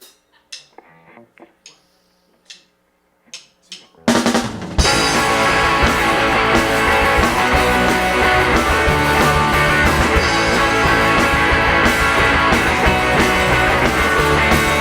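A few scattered soft taps and clicks, then about four seconds in a live rock band crashes into a song's instrumental intro, the drum kit loudest, with kick and snare driving a steady beat.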